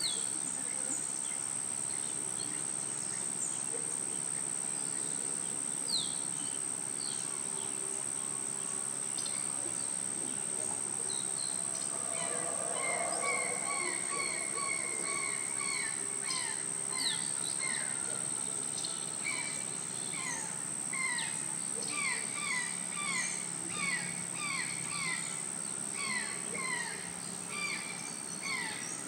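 Birds calling: many short, falling chirps that grow denser and more rhythmic from about halfway, over a steady high-pitched whine.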